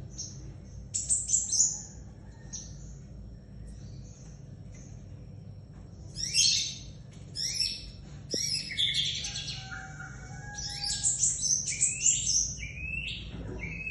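Crimson sunbird in full song: rapid high twittering phrases of quick falling notes, in a short burst about a second in and then near-continuously through the second half, over a steady low hum.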